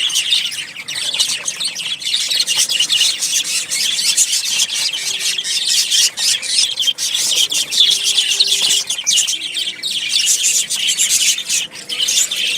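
Many small birds chirping and twittering at once, a dense, unbroken chatter of short high-pitched calls, as birds squabble.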